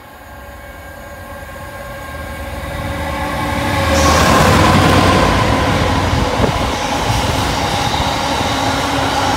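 Train approaching and passing close by, growing louder over about four seconds, then running steadily at full volume with several steady whining tones over the rumble of the wheels.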